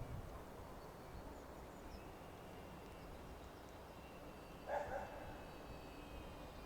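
A dog barks once about two-thirds of the way through, over a quiet low rumble and faint high bird chirps.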